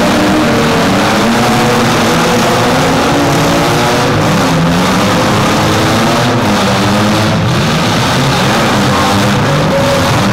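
Several demolition-derby SUV and small-truck engines revving hard at once: a loud, continuous mix of overlapping engine notes rising and falling.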